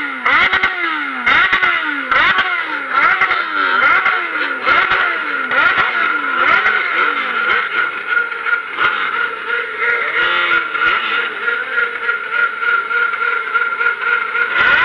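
Motorcycle engine revved hard in a rapid run of throttle blips, the pitch swooping down and up about twice a second. About eight seconds in it settles into a steady high-rpm note, held near the rev limiter.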